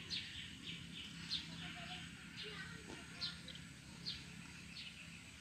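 Faint bird chirps: short, high notes sliding downward, about two a second at irregular spacing, over a low steady hum.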